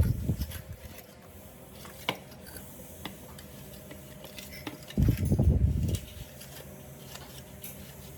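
Handling of blender parts and tools on a work surface: light clicks and clinks, a sharper clack about two seconds in, and a heavier rubbing clatter for about a second around the five-second mark.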